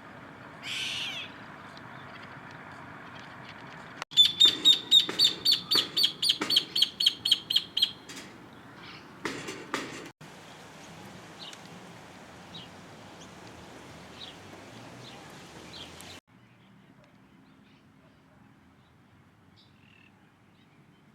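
Bird calls: one short call about a second in, then a loud, rapid series of about fifteen high notes at roughly four a second, followed by a harsher call and a few faint chirps. The background hiss drops suddenly about three quarters of the way through.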